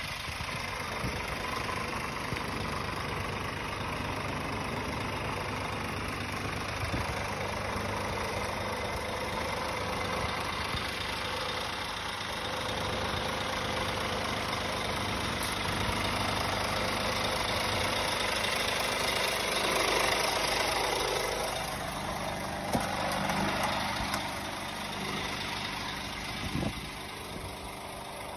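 Scania R490 tractor unit's 13-litre straight-six diesel idling steadily, swelling louder for a moment about twenty seconds in, with a few sharp knocks near the end.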